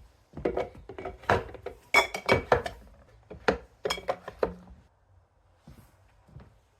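Glassware clinking and knocking against hard surfaces, a quick run of a dozen or so knocks over about four seconds, a few of them ringing briefly.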